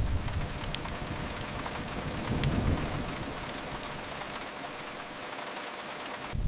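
Steady rain hiss, with a low rumble under it in the first half that dies away about three seconds in, and a few faint clicks.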